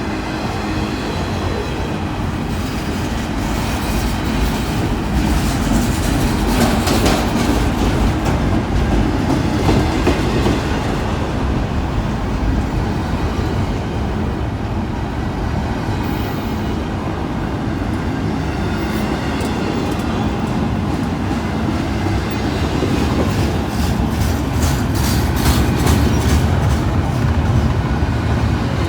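Freight train rolling past with a steady rumble, its wheels clicking over the rail joints; the clicks come thicker near the end.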